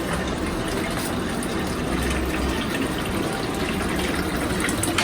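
Water running steadily into a foam sprayer's tank as it is filled to the 1-litre mark.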